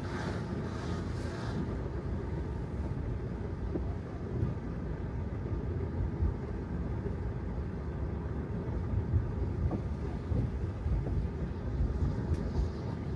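Steady low road rumble from a Tesla Model 3's tyres rolling over wet pavement, with no engine note from the electric car. A brief hissing swish comes at the start and again near the end.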